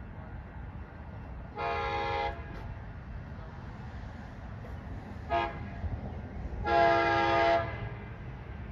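Train horn sounding three blasts, long, short, then a longer one, each a rich multi-note chord. A low steady rumble runs underneath.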